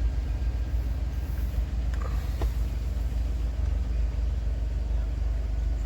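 2007 Chevrolet Suburban's engine idling with a steady low rumble, with a few faint clicks about two seconds in.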